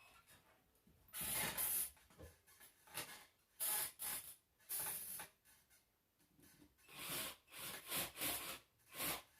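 Irregular bursts of rubbing and scraping from hands working ceiling fan parts and screws during reassembly, several short scrapes with quiet gaps between them.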